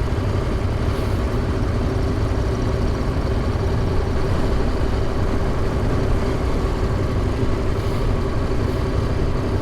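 Motorcycle riding at a steady low speed: the engine running evenly under a heavy low wind and road rumble, picked up by an in-helmet microphone.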